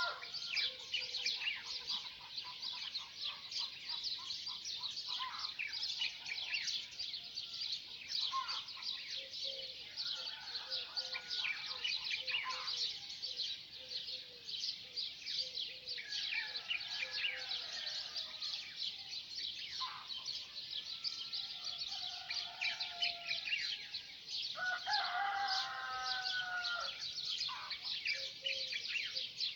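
Chorus of many small birds chirping and twittering without pause, with a louder, drawn-out call from a larger bird now and then, clearest near the end.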